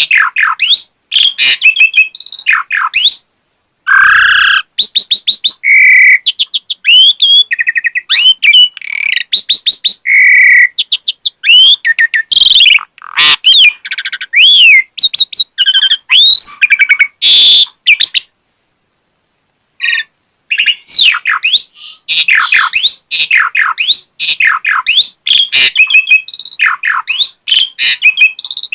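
Asian pied starling (jalak suren) singing a fast, varied song of whistles, chirps, quick trills and rattles, in full voice. It falls silent for about two seconds about two-thirds of the way through, then resumes.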